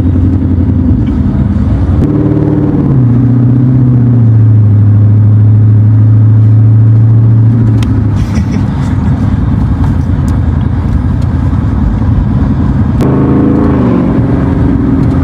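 Car engine and road noise heard from inside the cabin while driving. The engine pitch shifts up about two seconds in and again near the end, with a steady hum in between.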